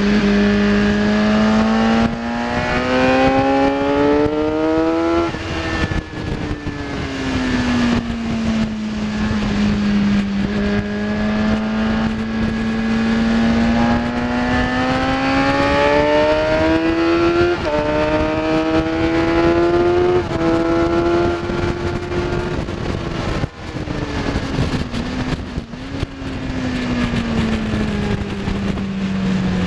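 Kawasaki ZX10R's inline-four engine at full racing revs: it climbs, eases off and falls through the first ten seconds, then pulls up again with two quick upshifts about two thirds of the way in. After that the throttle closes and the revs fall away.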